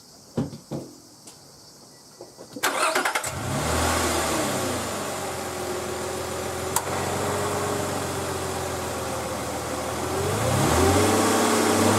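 A few sharp clicks, then a Nissan Elgrand (E51) engine is cranked by the starter and catches about three seconds in. It flares up, settles to a steady idle with a single click mid-way, and revs up again near the end.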